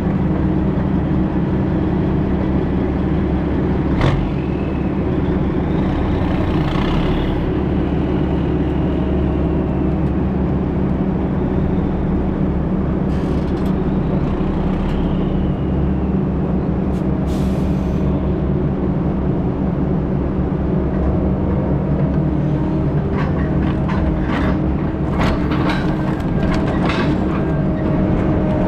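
Diesel engine of heavy logging machinery running steadily under load, with a few sharp knocks and short hisses, most of the knocks toward the end.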